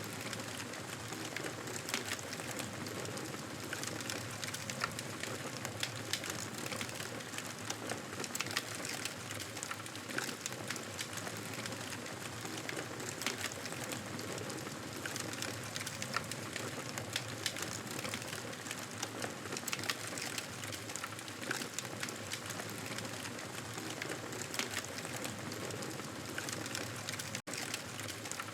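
Wood fire crackling in a fireplace: a steady hiss dotted with frequent small sharp pops and crackles. It cuts out for an instant near the end.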